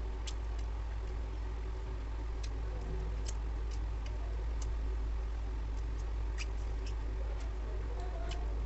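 Wet mouth clicks and smacks of someone chewing rice and curry, scattered and irregular, over a steady low hum.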